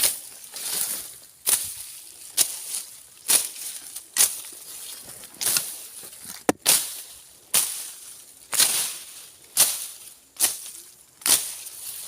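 Machete slashing through brush and grass, a swishing cut about once a second, with a sharper click of the blade about halfway through.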